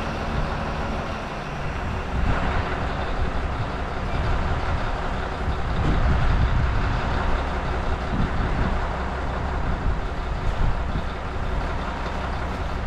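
Heavy truck's diesel engine running steadily as it is driven slowly in snow.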